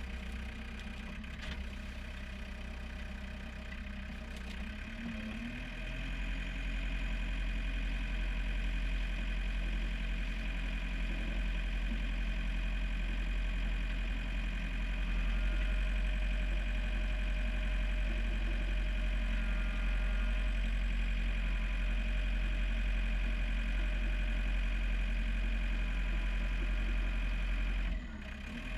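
John Deere 4720 compact tractor's diesel engine running steadily. It picks up and runs louder about six seconds in, with a brief drop in loudness near the end.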